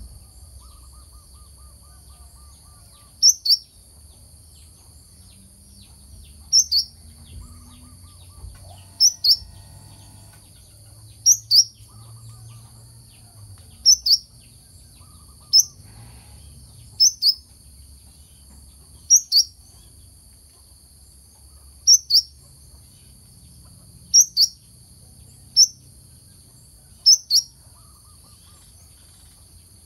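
Brown-throated sunbird (kelicap mayang kelapa) calling: sharp two-note chirps, repeated every two to three seconds, over a steady high hiss and a faint low rumble.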